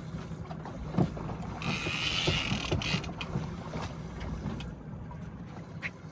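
Steady low rumble of a fishing boat's engine with wind and water noise, scattered knocks and clicks from gear on deck, and a burst of hiss about two seconds in.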